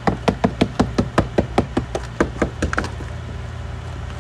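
Hammer tapping rapidly on a frozen car door, about five strikes a second for nearly three seconds, to break the ice holding the door shut.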